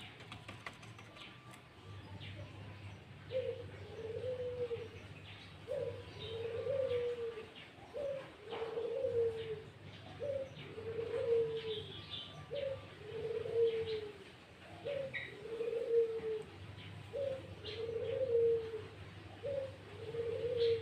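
A dove cooing over and over: a short note followed by a longer one, repeated about every second and a quarter, starting about two seconds in. Faint short bird chirps sound higher up, over a steady low hum.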